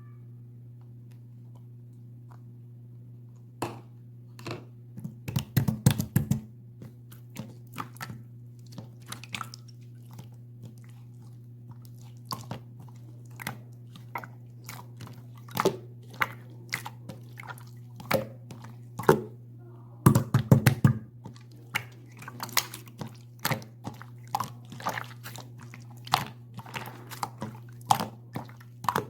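Slime being played with by hand, making many short sticky clicks and pops. They start a few seconds in and come in dense bursts about six seconds in and again about twenty seconds in, over a steady low hum.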